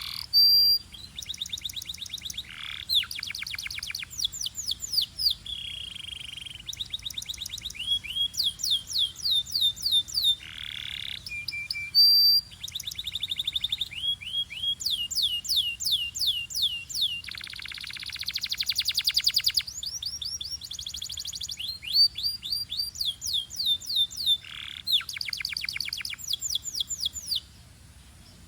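Belgian canary singing a long, fast song of rapid trills: runs of quickly repeated notes that change to a new trill every second or two, with a few buzzy rolls. The song breaks off about a second before the end.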